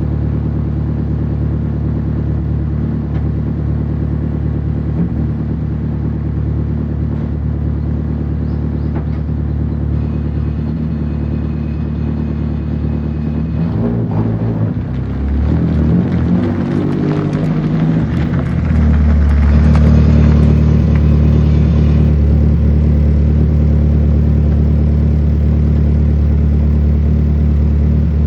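Straight-piped, naturally aspirated 2.2-litre four-cylinder with individual throttle bodies in an S13 Nissan Silvia, idling with a steady note. About halfway through, the engine note wavers and shifts as the car is moved, then settles into a louder steady running note for the rest.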